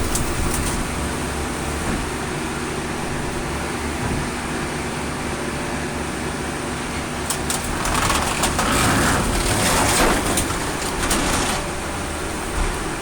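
Colmar P5 260 metal baler's power unit running steadily, with a louder stretch of metal cracking and crunching from about eight to eleven seconds in as the car body is compressed.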